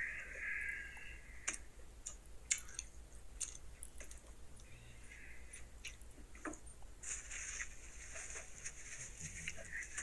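A man biting into and chewing a pulled pork barbecue bun: wet mouth sounds with scattered small clicks.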